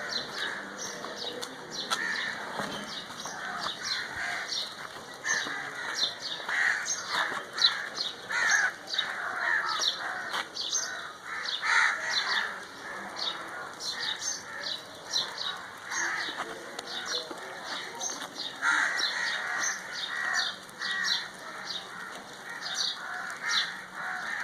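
A flock of crows cawing over and over, with smaller birds chirping among them.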